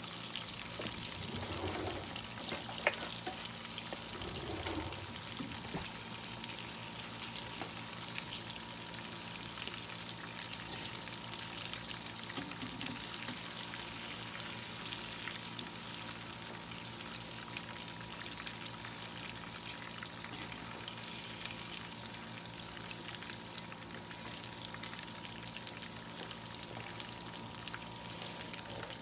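Cheeto-crusted mozzarella sticks deep-frying in a pan of hot oil: a steady crackling sizzle. A spoon knocks sharply against the pan about three seconds in, with a few lighter clicks around it.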